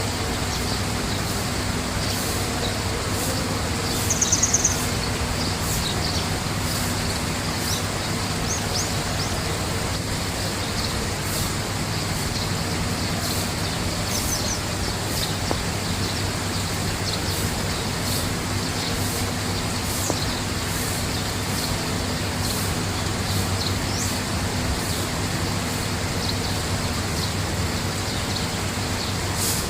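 Small birds chirping, short high calls scattered throughout, with one louder high trill about four seconds in, over a steady rushing background noise with a low hum.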